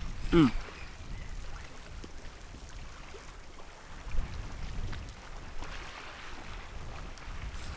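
Wind and water noise at the seashore, a steady low rumble. About half a second in comes one short call that falls in pitch.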